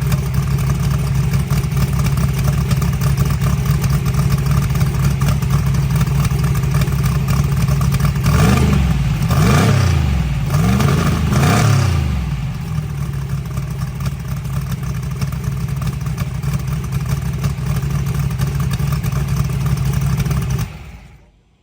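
Drag race truck engine running steadily, revved up and down several times in quick succession partway through, then stopping abruptly near the end.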